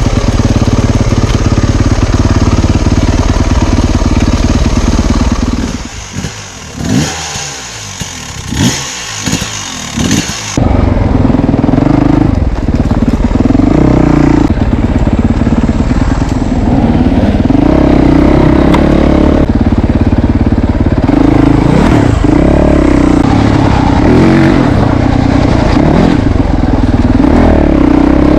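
A motor vehicle engine running loudly. It drops back about a quarter of the way in and is revved up several times in short blips, then runs loudly and steadily again.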